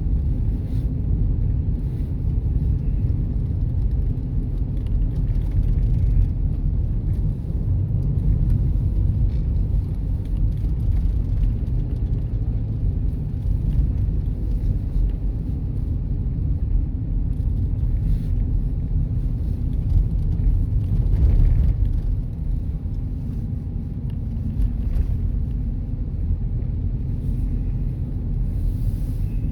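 Steady low road rumble of a car being driven: tyre and engine noise with no clear changes in speed.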